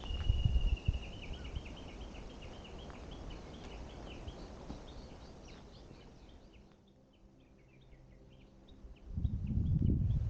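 A small bird singing in a forest: a held high note, then a quick run of short repeated chirps. Low rumbling noise sits underneath, fades, and swells loud again near the end.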